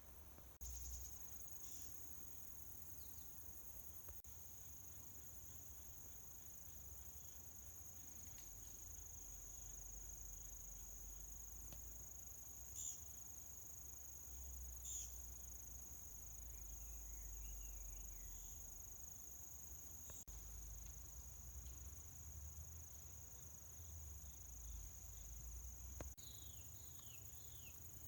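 A faint, steady, high-pitched insect trill, with a few short falling bird chirps near the end and a low rumble underneath.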